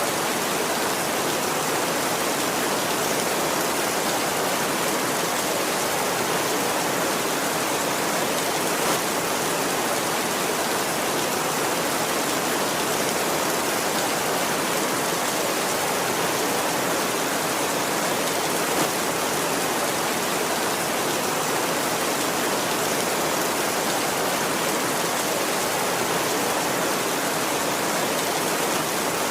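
Heavy rain falling steadily on a tin roof: an even, dense hiss with no thunder.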